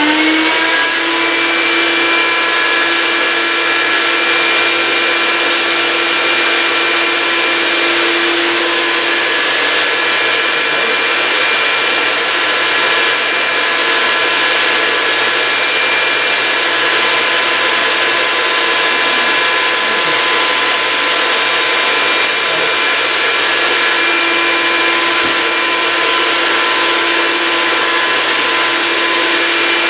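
Vacuum motor on a vacuum-forming table running at a steady whine after spinning up. It is getting hardly any pull on the heated PETG sheet, which the owner puts down to a poor seal around the frame.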